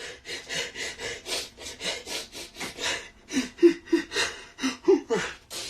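A man's fast, heavy, rasping breathing, about three breaths a second. Short whimpering sobs come through in the second half, the distressed breathing of someone who has just been screaming.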